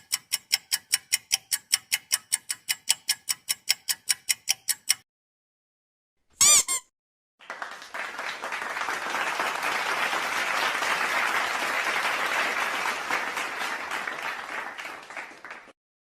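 Sound effects played in turn: a clock ticking about four times a second for five seconds, a brief warbling tone about six and a half seconds in, then applause for about eight seconds.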